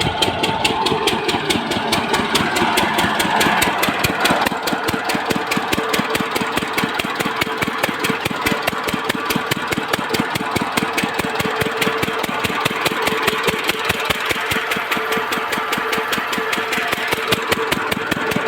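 Lister-type single-cylinder diesel engine running steadily on a water pump, each firing stroke a distinct beat at about five a second, with a steady hum over the beats.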